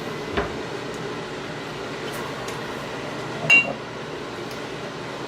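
A utensil knocking softly and then clinking sharply, with a short ring, against a baking pan while chicken is basted with barbecue sauce, over a steady hum in the kitchen.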